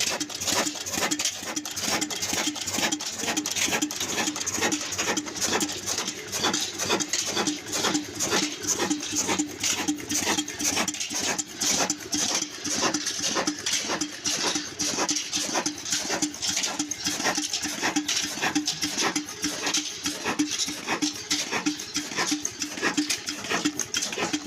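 Old Ruston Hornsby diesel engine running steadily, its exhaust and firing beats coming in a fast, even rhythm.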